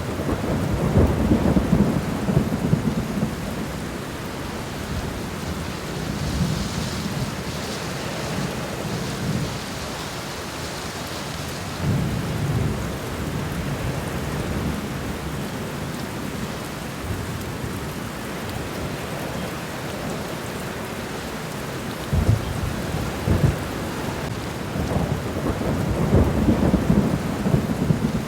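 Steady rain falling on the ground and leaves in a garden, with deep rumbles that swell and fade several times; the loudest come near the start and near the end.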